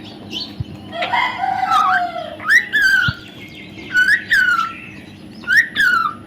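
Parrot calling: a longer, rougher call about a second in, then three short calls that each rise and then fall in pitch, spaced about a second and a half apart.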